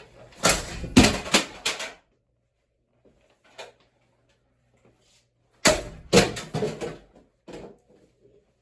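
Hard clattering knocks in two quick clusters, starting about half a second in and again near six seconds: a thrown broken router striking a spinning ceiling fan and clattering down.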